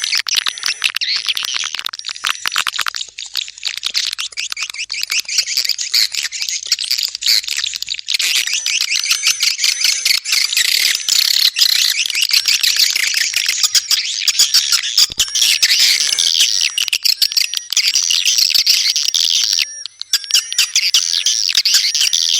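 Swiftlet calls: a dense, continuous chorus of high twittering chirps mixed with rapid clicks, the kind of swiftlet sound played to lure edible-nest swiftlets into a nesting house.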